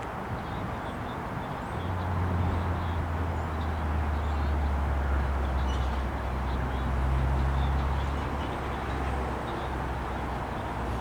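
GO Transit diesel locomotive's engine droning low, swelling about two seconds in and easing again near the end, over a steady rumble.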